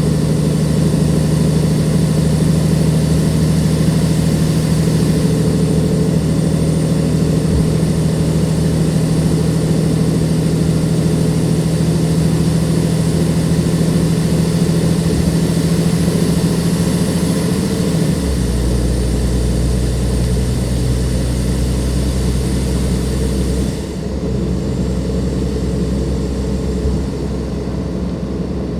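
Dennis Enviro 500 bus's Cummins ISLe diesel engine running steadily under load. About eighteen seconds in, its note drops suddenly to a lower, deeper drone as the engine speed falls.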